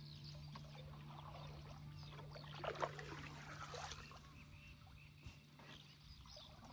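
Canoe paddle strokes through river water, soft dips and drips with a couple of slightly louder splashes about three seconds in. A faint steady low hum runs underneath.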